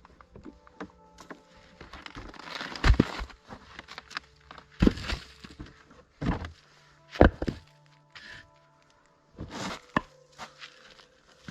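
A series of heavy wooden knocks and thuds, about five strong ones spaced a second or two apart, with smaller clatters between: wood being handled or struck. Soft background music with long held notes runs underneath.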